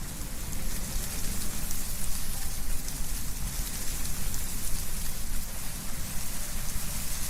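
Wind blowing through trees, with a dense steady rustle of leaves and a gusty low rumble that swells and eases.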